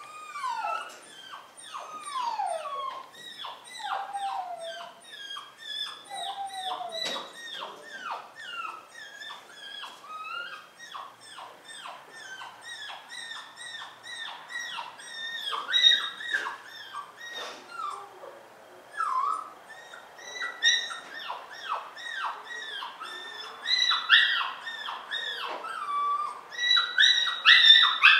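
Puppy whining and yelping continuously in short, high cries that fall in pitch, a few each second, with some longer drawn-out whines early on; the cries grow louder near the end.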